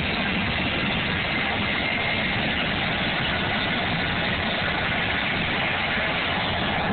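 Jet engine of a jet-powered fire truck running steadily: an even rush of noise with a faint high whine over it.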